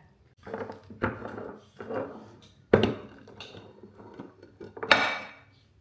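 A handful of separate knocks and clatters, like things being put down or handled in a kitchen. The sharpest come a little under three seconds in and about five seconds in.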